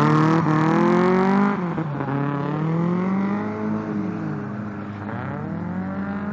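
Nissan SR20DE 2.0-litre four-cylinder engine in a Toyota KE70 Corolla, revving hard under track driving. The pitch climbs and falls several times, with a sharp drop about two seconds in and a climb again near the end. It is loudest in the first second and a half.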